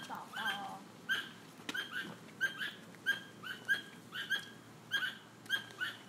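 A bird calling: short, high chirps repeated about two or three times a second, often in quick pairs.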